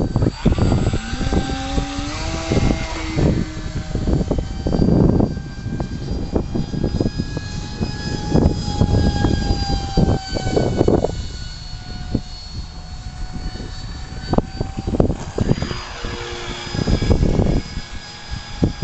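Electric ducted fan of a 64 mm RC model jet whining in flight, its high pitch gliding slowly up and down as the model passes. Gusty wind noise rumbles on the microphone underneath.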